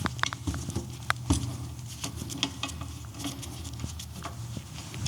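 Scattered light clicks and taps of a motorcycle's plastic body cover being worked loose and handled, over a low steady hum.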